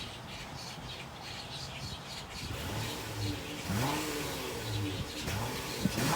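2016 Honda Odyssey LX's 3.5-litre V6 heard at the exhaust, idling and then revved from about halfway through, its pitch rising and falling.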